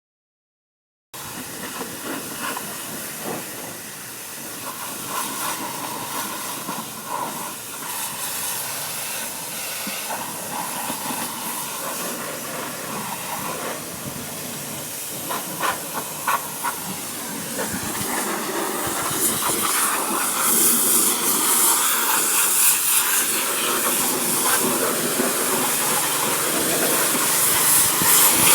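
Steady hiss of water spraying on an engine during an engine wash, starting about a second in. There are a few sharp clicks near the middle, and it grows louder over the last third.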